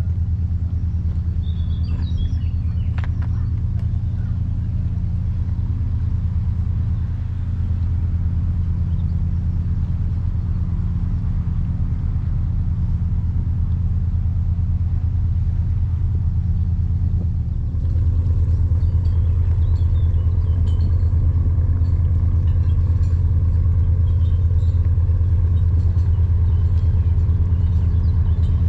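A steady low drone with an even hum, like a motor running, growing a little louder about eighteen seconds in, with faint high chirps now and then.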